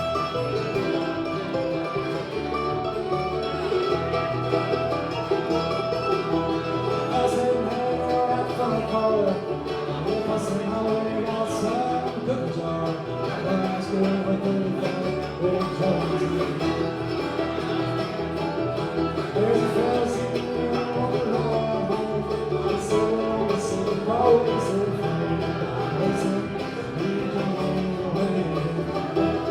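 Live bluegrass band playing an instrumental stretch, with banjo and guitar picking.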